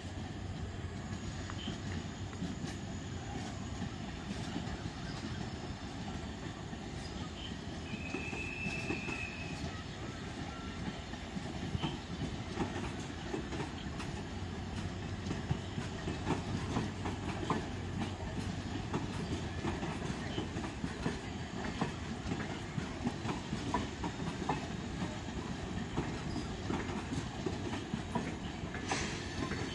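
Passenger train coaches rolling along the track, steel wheels clicking over rail joints in an uneven clatter over a low rumble, the clicking growing busier from about halfway. A short high squeal comes about eight seconds in.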